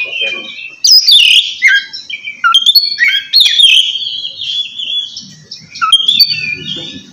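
Oriental magpie-robin (kacer) singing loudly in the 'ngeplong' style, a rival-challenging song: a fast run of varied clear whistles, sliding notes and short trills with brief pauses between phrases.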